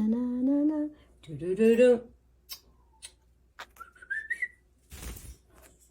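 A person hums a few notes of a tune, then a cockatiel answers with a short whistle that climbs in small steps. There are a few light clicks, and a brief rustle near the end.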